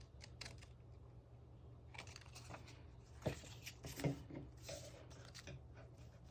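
Scrapbooking paper and stationery being handled on a desk: faint rustling and small clicks, with two sharper taps a little after three and four seconds in.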